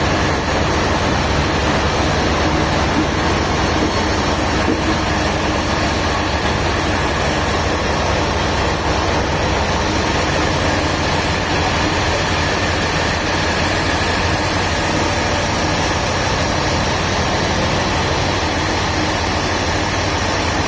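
Sawmill machinery running steadily, a constant engine-like hum with a broad hiss over it and no change in load.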